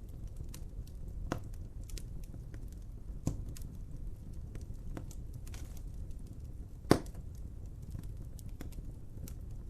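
Wood fire burning with a steady low rumble and scattered sharp crackles and pops, the loudest pop about seven seconds in.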